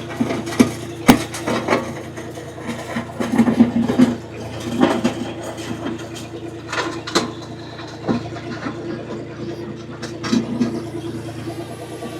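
Tractor engine running steadily, with irregular sharp clanks and knocks on top, the loudest about a second in and around the four- and seven-second marks.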